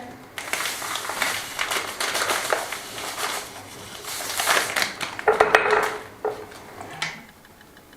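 Salt being poured into the bottom of a glass jar, a dry crunching rattle of grains against glass, with a louder clatter about five seconds in.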